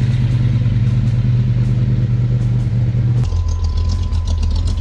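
Classic car engine idling with a loud, steady low rumble. About three seconds in, it switches abruptly to another, lower engine rumble.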